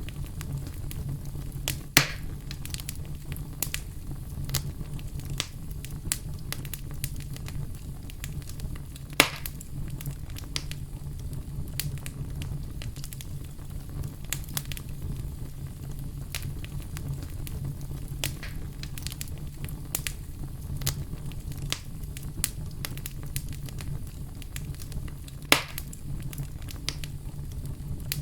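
Wood fire crackling over a low steady rumble, with frequent small crackles and three louder sharp pops spread through.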